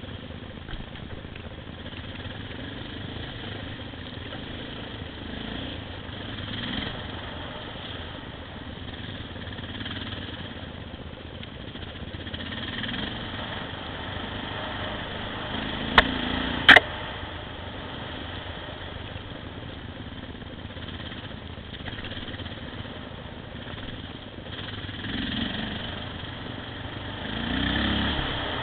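Off-road motorcycle engine running as it rides, its revs swelling and easing several times. A little past halfway come two sharp knocks about half a second apart, the loudest sounds.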